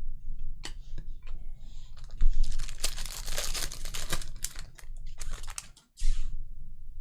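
Trading cards and foil pack wrappers being handled: a flurry of rapid clicks and crinkling, busiest in the middle.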